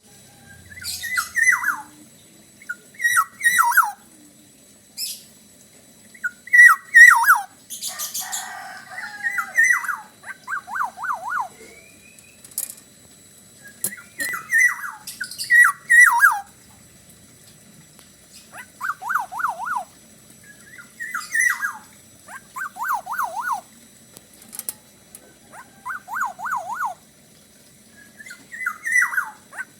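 Black-naped oriole (kepodang) singing: short fluty whistled phrases that drop in pitch, repeated every two to three seconds and alternating with quick runs of rising and falling notes. A short rustling noise comes about eight seconds in.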